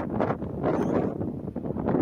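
Wind buffeting the microphone in uneven gusts, a rough rumbling rush that swells and dips.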